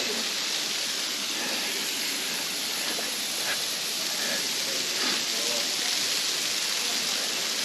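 Small waterfall splashing down from a sandstone overhang: a steady, even hiss of falling water.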